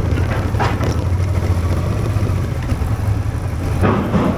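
A vehicle engine running steadily as a low drone, with a haze of road or wind noise over it; a short sharper sound comes about half a second in and another near the end.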